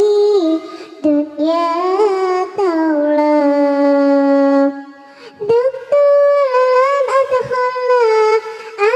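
A cat-like voice singing a sholawat melody, holding long notes and sliding between pitches, with a short break about five seconds in.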